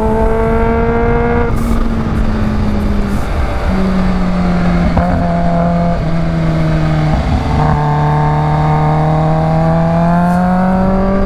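Kawasaki H2's supercharged inline-four engine running under way, over a steady rush of wind. The engine note breaks off and comes back at a new pitch several times, then climbs slowly over the last few seconds.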